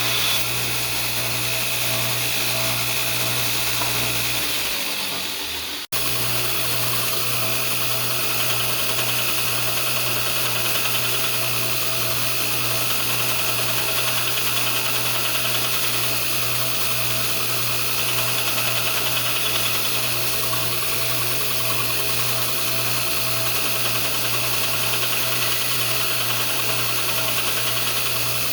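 Belt grinder running steadily with a low pulsing hum and a hiss, while the edge of a hardened steel flint striker is ground flat on the abrasive belt. About six seconds in the sound dips away and cuts back in abruptly.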